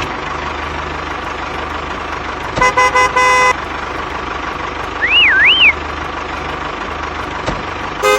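A vehicle engine running steadily, with a truck horn sounding a few quick toots and then a longer blast about three seconds in, and again near the end. Around the middle, a whistle swoops up and down twice.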